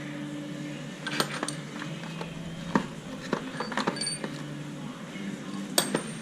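Metal tools and parts clinking and knocking now and then, in irregular single strikes, over a low steady hum.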